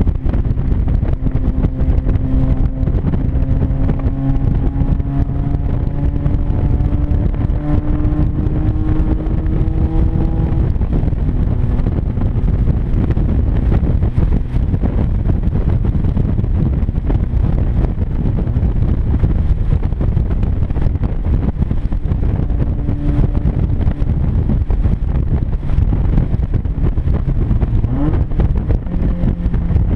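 1996 Mazda Miata's 1.8-litre four-cylinder engine at highway speed through an exhaust opened up at the joint between the catalytic converter and the mid-pipe. The leak makes it very loud, over a steady rush of wind and road noise. The engine note climbs slowly through the first ten seconds as the car gathers speed, and rises briefly and quickly near the end.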